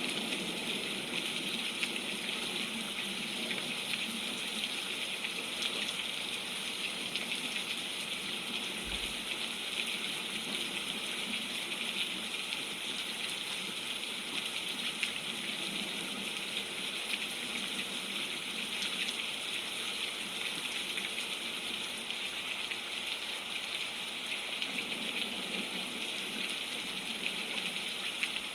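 Steady, constant rain falling.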